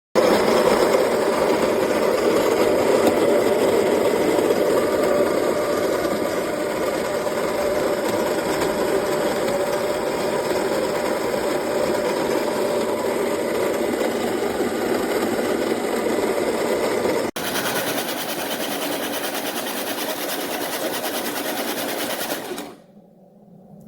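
Baratza Encore burr coffee grinder's motor running steadily, starting abruptly. After a short break about 17 seconds in it runs on with a thinner, higher sound, then stops near the end.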